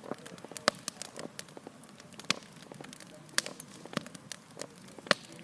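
Campfire crackling: wood burning with irregular sharp pops and snaps, a few louder than the rest.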